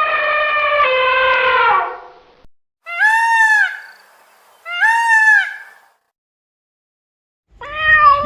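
Animal calls: a long steady call that ends about two seconds in, then two shorter calls that rise and fall in pitch, about a second each and two seconds apart, and a new call starting near the end.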